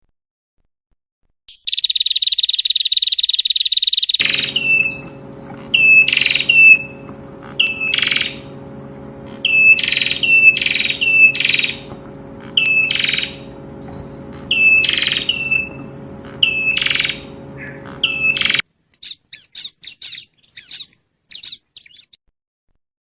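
Prenjak (prinia) song: a buzzy trill for about two and a half seconds, then a run of sharp high notes that each drop in pitch, in groups of two or three, over a steady electrical hum in the recording. Near the end, after the hum cuts out, comes a fainter run of short high chirps.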